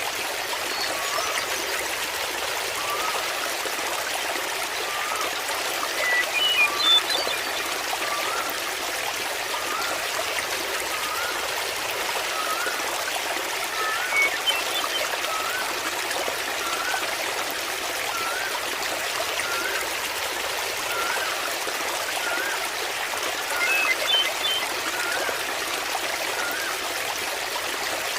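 Small waterfall splashing steadily into a pool. Over it, a short rising call repeats about once a second, and brief high chirps stand out three times.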